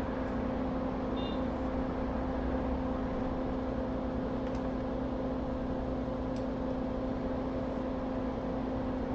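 Steady electric fan hum from workbench equipment, an even whir with a low, constant tone. A faint short beep sounds about a second in.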